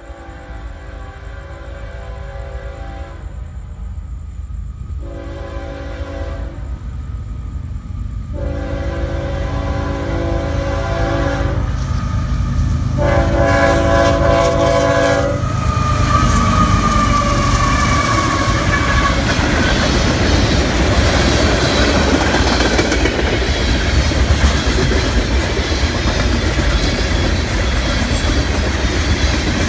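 Freight train's diesel locomotive horn sounding in several blasts as the train approaches, growing louder, the horn stopping about halfway in. Then the locomotives rumble past and the freight cars roll by with a loud, steady noise.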